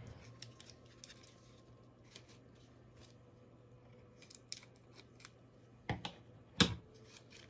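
Quiet handling of a taped-shut card package: sparse small clicks and rustles, then two louder sharp clicks close together near the end.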